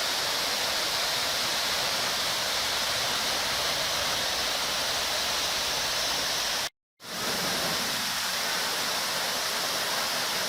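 A 75-foot waterfall's water pouring down in a steady rushing hiss. The sound drops out completely for a split second about two-thirds of the way through, then resumes.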